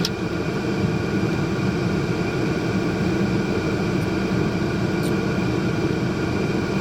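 Steady low mechanical rumble, even and unchanging throughout, with a faint tick about five seconds in.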